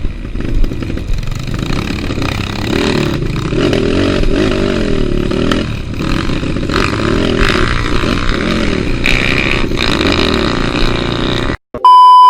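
Trail motorcycle engine running and revving, its pitch rising and falling with the throttle. Near the end the sound cuts out suddenly and a loud steady electronic beep tone starts.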